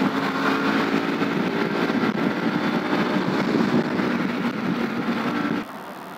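Bajaj Pulsar NS160's single-cylinder engine pulling steadily at highway speed, heard from the rider's helmet with wind and road rush. Near the end the sound cuts abruptly to a much quieter street scene.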